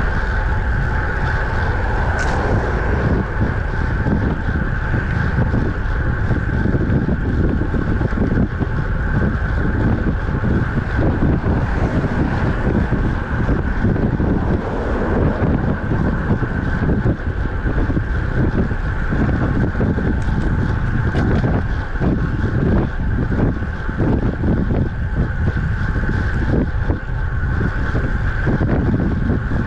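Wind buffeting the microphone of a camera riding on a moving road bicycle, a loud, steady rumble that flutters continuously.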